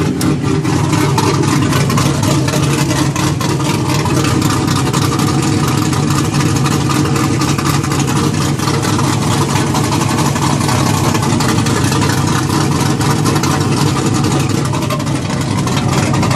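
Built 6.0 L LS2 V8 with a large Texas Speed Tsunami cam, idling steadily and loud with its electric exhaust cutouts open, so the exhaust exits through the open cutouts rather than only through the mufflers.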